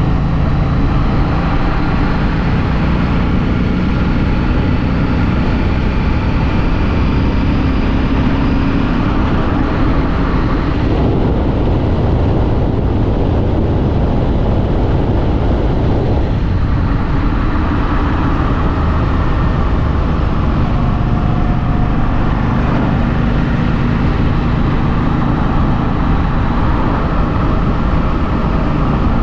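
2016 Harley-Davidson Street 500's liquid-cooled V-twin running on its stock exhaust while riding, with wind and road noise; its pitch moves with the throttle, and it goes softer for about five seconds near the middle before pulling again.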